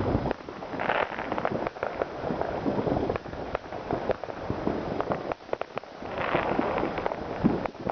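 New Year's Eve fireworks going off: many sharp bangs and crackles at irregular intervals, with denser spells of crackling about a second in and again around six seconds in.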